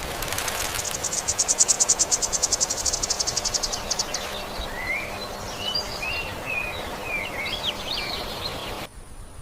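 An insect's rapid, high-pitched pulsing trill for about four seconds, followed by a string of short bird chirps. The background drops off abruptly near the end.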